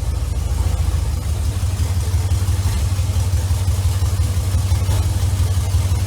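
GM LQ9 6.0-litre V8 idling steadily just after being started. It is a fresh LS swap running for one of its first times, and it sounds good to the owner.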